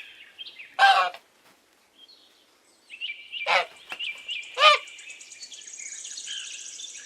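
Goose honking: three loud calls, about a second, three and a half and four and a half seconds in, each falling in pitch, with fainter bird chirping behind.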